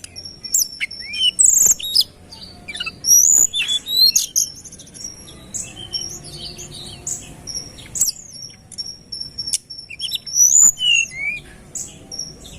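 A tledekan gunung songbird singing a fast, dense song of varied chirps, sharp whistles and quick up-and-down notes, with hardly a pause.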